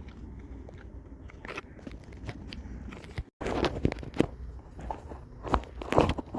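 Footsteps crunching on a trail: irregular crunchy steps that get louder after a brief break in the sound about three seconds in.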